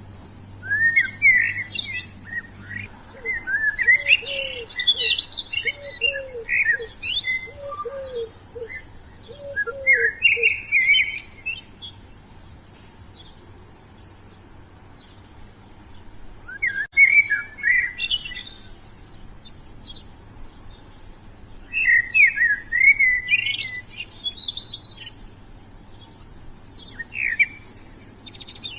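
Wild songbirds singing in bursts of quick, high chirping phrases that come and go every few seconds. A lower call repeats about six times in the first third.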